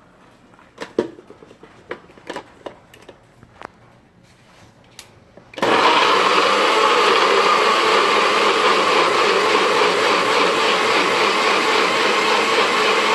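A few light knocks and clicks, then about five and a half seconds in a bullet-style personal blender's motor starts suddenly and runs steadily and loudly, blending rough-chopped herbs and water into a wet curry paste.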